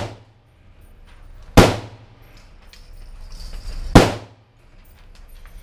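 Two gunshots on an indoor range, about two and a half seconds apart, each a sharp crack with a short echoing tail. The tail of another shot fades at the very start.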